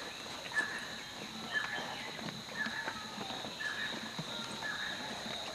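A bird repeating a short, falling call about once a second over a steady high drone of insects.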